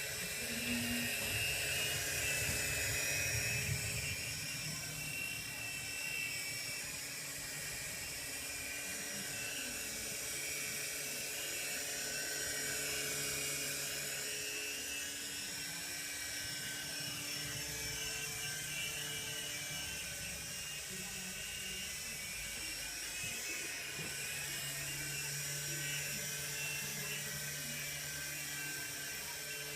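Helicopter running: a steady high whine with a lower hum beneath it, the high tones drifting slowly up and down in pitch.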